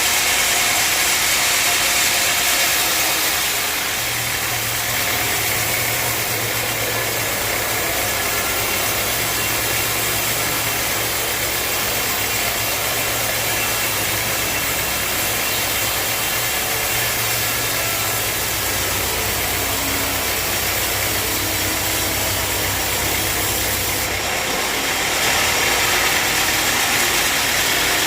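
Sawmill machinery running steadily with a continuous rushing noise. A low steady hum comes in about four seconds in and drops out a few seconds before the end, when a brighter hiss returns.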